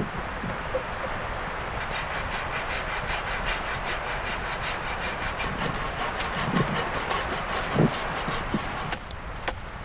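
Hand saw cutting through wood in fast, even strokes, starting about two seconds in and stopping near the end, over steady wind noise.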